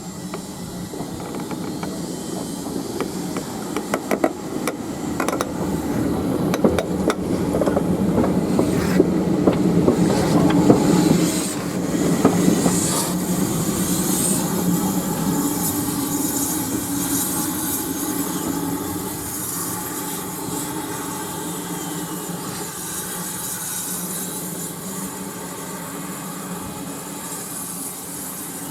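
A train passing, its wheels clicking over the rail joints. It grows louder to a peak about ten seconds in, then slowly fades as it moves away.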